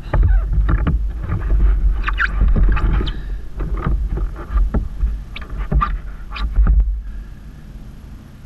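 A kayak being paddled: irregular paddle strokes splashing in the water and knocking on the hull, with wind rumbling on the camera microphone. It goes quieter about seven seconds in.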